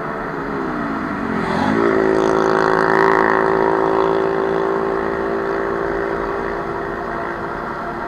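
A vehicle engine revving: its pitch dips, then rises sharply about two seconds in and holds high and steady. It is loudest a second later, then slowly fades.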